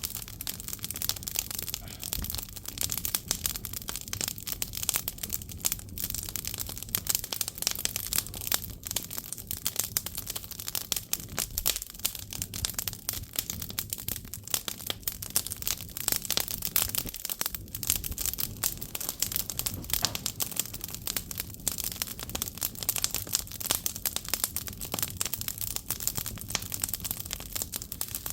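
Firewood burning in an agungi, a traditional Korean wood-fired firebox: steady, dense crackling with many sharp irregular snaps over a low hiss.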